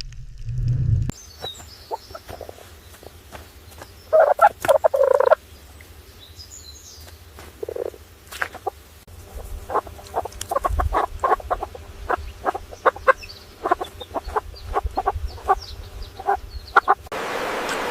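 Poultry calling: one dense, rattling call lasting about a second, about four seconds in, then a fast run of many short clucks.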